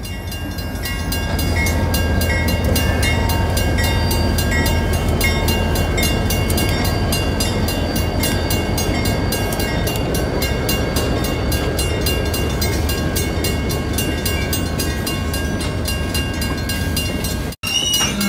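Freight train passing close by a grade crossing: diesel locomotives rumbling past with a steady low engine drone, then rail cars rolling by, while the crossing bell rings on in an even rapid rhythm. The sound drops out for an instant near the end.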